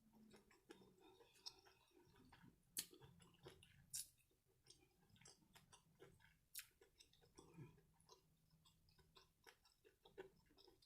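Faint chewing with soft mouth clicks and a few sharper clicks scattered through.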